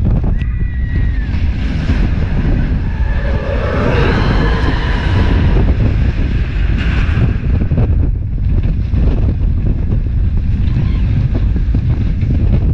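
Wind buffeting the microphone and the rumble of the Expedition Everest roller coaster train running at speed. The rushing sound gets stronger and higher for a few seconds in the middle.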